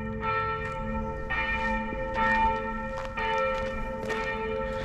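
Church bells ringing, struck about once a second, their long tones overlapping. They are ringing the six o'clock evening hour.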